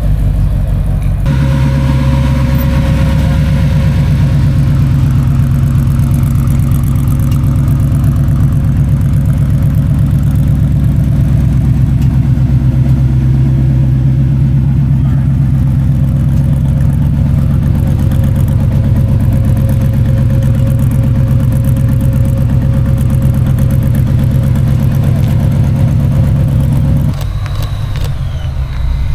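Car engine idling close by, a steady low rumble that holds an even pitch. The sound changes abruptly about a second in and again near the end.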